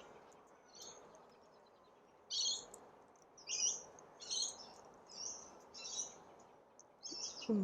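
A bird calling repeatedly: about six short, high chirpy calls spaced roughly a second apart.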